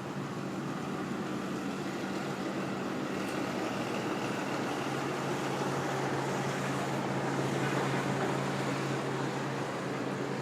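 City street traffic: a steady wash of vehicle noise with a low engine hum. The hum grows stronger about halfway through as a vehicle draws close, then eases slightly near the end.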